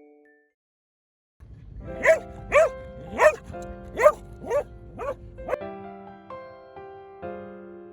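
A dog barking seven times in quick succession, about two barks a second, over soft piano background music.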